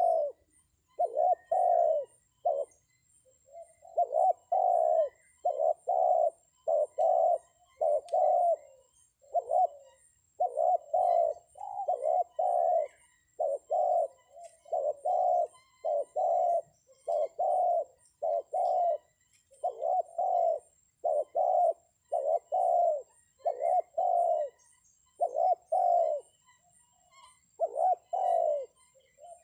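Spotted dove (tekukur) cooing over and over, about one low coo a second with short pauses: the lure call used to draw wild doves down to a trap.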